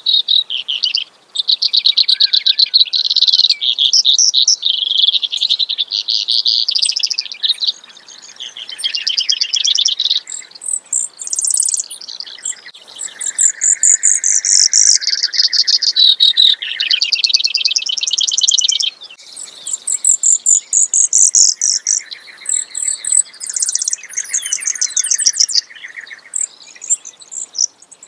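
Brewer's sparrow singing its long song: a run of rapid trills that keep changing pitch. Some phrases are high and thin, others lower and buzzier, with only short breaks between them.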